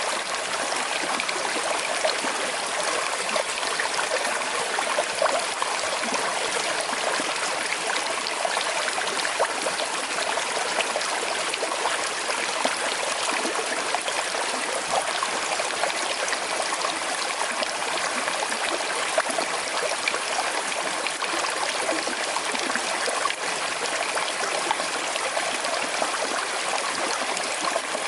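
Small river with a slight current flowing and trickling steadily, a constant babbling water noise.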